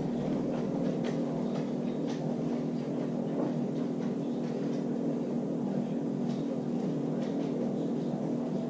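A steady low mechanical hum made of several held tones, with faint scattered light clicks over it.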